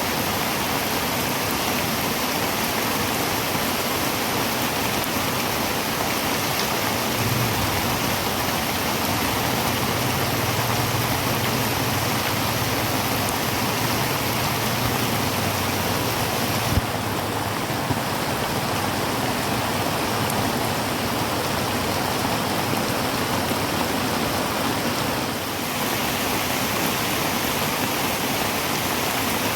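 Heavy rain drumming on a tin roof, a dense steady hiss. A faint low hum runs under it through the middle, and there is a single sharp tick about two-thirds of the way in.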